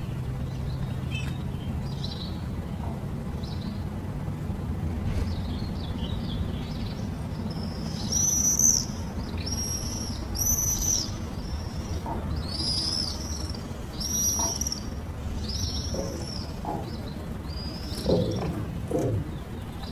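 A bird calling repeatedly: a run of about eight short, high-pitched calls, each rising and falling in pitch and lasting about half a second, starting about eight seconds in, over a steady low rumble.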